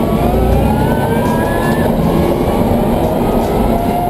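Twin Warp 11-inch DC electric motors of a converted 1995 BMW M3 race car whining under acceleration, the whine rising in pitch over the first two seconds, over heavy road and drivetrain rumble.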